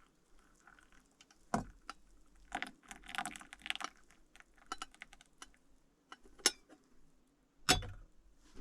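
Irregular light clicks and clatters of small hard objects being handled, with a few sharper knocks, the loudest two near the end.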